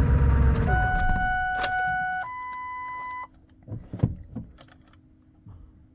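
A Ford 7.3-litre diesel truck engine, running cold, shuts off under a second in. Two steady beeping tones follow, one after the other, the second higher. Then a few light clicks and rattles, like keys at the ignition.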